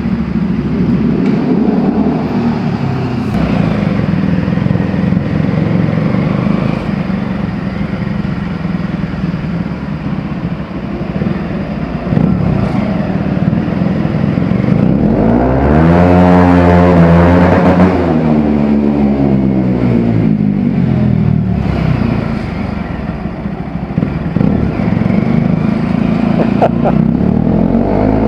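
Bajaj Pulsar 200 motorcycle engine running through an Akrapovic exhaust while riding, its note steady for a while, then climbing sharply with revs and falling away again about two-thirds through, with another rise near the end.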